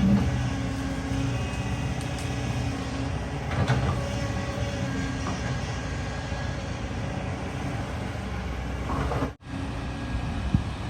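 An excavator's diesel engine running steadily, with a few metallic clanks from the machine working.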